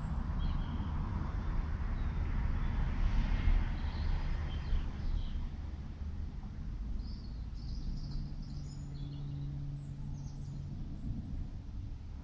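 Distant jet roar from RAF Eurofighter Typhoons overhead, loudest a few seconds in and then fading away. Small birds chirp now and then.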